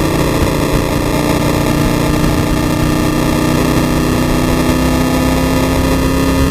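Race car engine at full throttle heard from inside the stripped cabin, its pitch rising slowly and steadily as the car accelerates along a straight, over loud wind and road noise.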